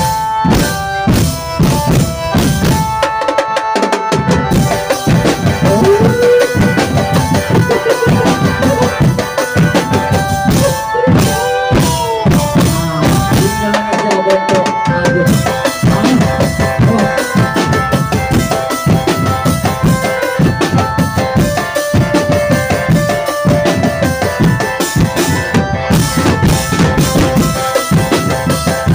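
Drum band playing: fast, dense drumming with a steady beat, and a sustained melody line with some bending notes over it.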